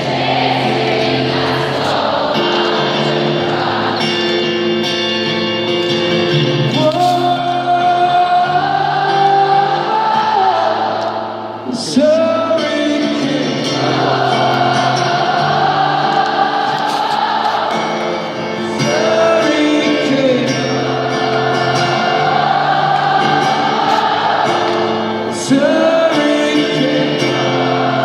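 A rock band playing a slow song live in concert, with long held chords and a sung melody carried by many voices. There is a brief dip and a sharp hit about twelve seconds in.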